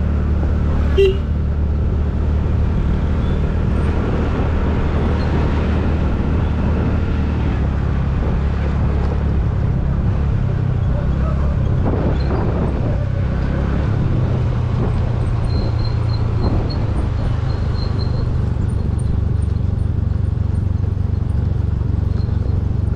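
Motorcycle engine running steadily as the bike is ridden along the road, its note changing about halfway through. There is a single short sharp knock about a second in.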